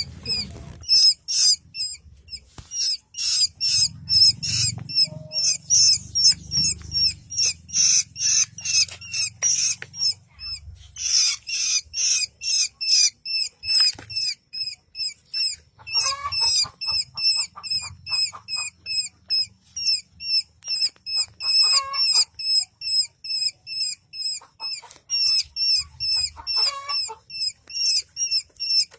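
Baby bird chicks chirping: short, high calls repeated rapidly, about three a second, without pause.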